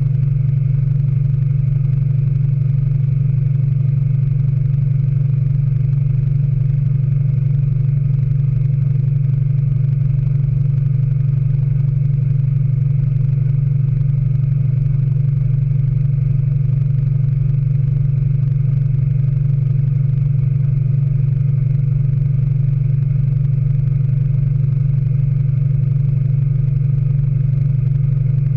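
Speed Queen AWNE92 9 Series top-load washing machine in its final spin, the basket turning at a steady full speed with a loud, even, low hum.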